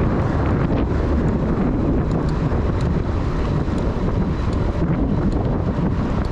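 Wind buffeting the microphone of a camera riding on a moving bicycle: a steady, loud, low rumble.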